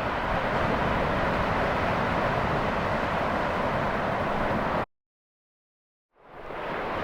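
Steady rush of ocean surf with wind on the microphone. It cuts off abruptly about five seconds in, and after about a second of silence it fades back in.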